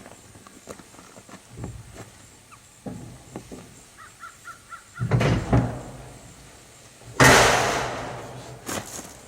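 Outdoor bird calls, with scattered small knocks and clicks and a loud sudden noisy burst about seven seconds in that fades over about a second.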